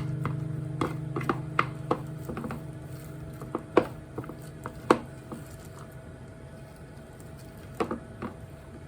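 Background guitar music fading out over the first few seconds, with scattered sharp kitchen clicks and taps, the loudest about four and five seconds in, and a quieter stretch near the end.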